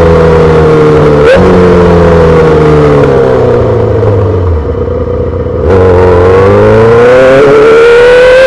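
2008 Yamaha R6's inline-four, breathing through a full SC-Project exhaust, under way: a short break in the engine note about a second in, then the revs fall off for a few seconds with the exhaust quieter as it rolls off the throttle. A little over halfway through the throttle comes back on and the engine note climbs steadily.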